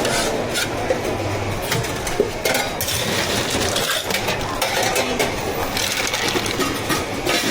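Steady clinking and clattering of drink-making work behind a milk tea counter, a run of small hard knocks and clinks with no pause.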